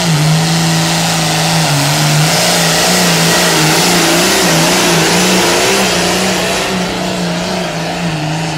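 Pulling tractor's engine at full throttle under heavy load as it drags the weight sled down the track. The engine tone holds high and steady with a slight waver, easing a little near the end.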